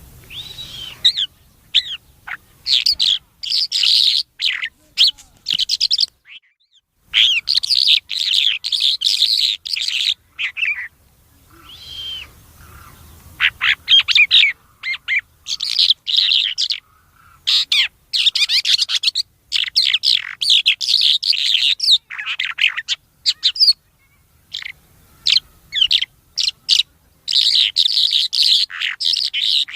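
A songbird known locally as the thor ghoora singing loud, fast, varied phrases of chirps and whistles, one burst after another with short pauses between them.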